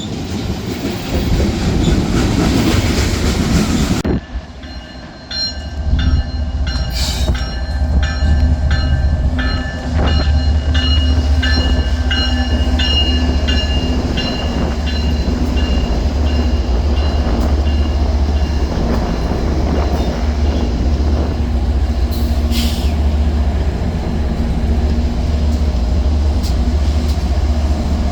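Train on the move: a rushing rumble that cuts off abruptly about four seconds in, then a steady low rumble with many short, high-pitched wheel squeals and clicks from the railcars, thinning out after about fifteen seconds.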